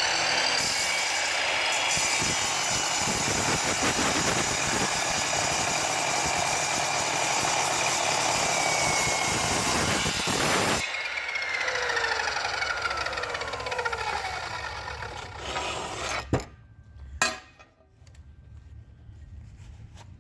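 Tacklife sliding compound miter saw with a metal-cutting blade cutting through 1/4 inch mild steel angle iron: a loud, steady cutting screech that stops abruptly about 11 seconds in. The motor's whine then falls slowly as the blade spins down, and two sharp knocks follow near the end.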